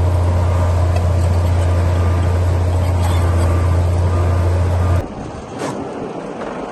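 Bulldozer diesel engine running under load with a loud, steady deep drone. About five seconds in it cuts off abruptly, giving way to quieter, thinner machine noise.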